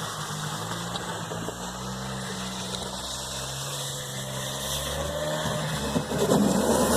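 A vehicle engine running steadily at low speed, getting louder about six seconds in.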